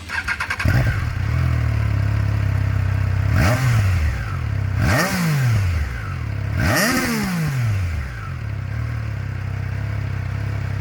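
2022 Triumph Tiger Sport 660's 660cc inline-three engine idling, blipped three times about a second and a half apart, each rev rising and falling back, then settling back to idle.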